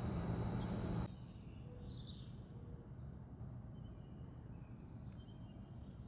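Steady outdoor ambient hiss cuts off abruptly about a second in, leaving quiet morning ambience with faint birdsong: one falling call just after the cut, then a few short chirps.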